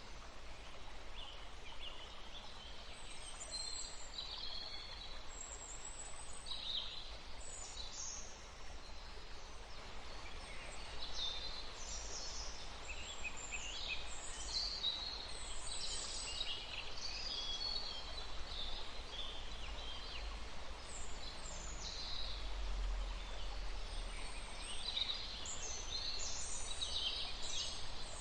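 Small birds chirping: many short, high calls overlapping, busier in the second half, over a steady background hiss and low rumble.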